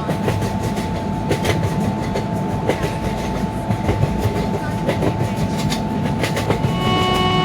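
Passing train: a steady heavy rumble with the wheels clacking over rail joints in a running series of clicks. A steady pitched tone with several overtones comes in near the end.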